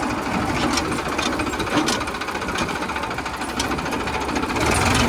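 Farmtrac 60 PowerMaxx tractor's diesel engine running steadily, with irregular sharp clicks on top and getting a little louder near the end.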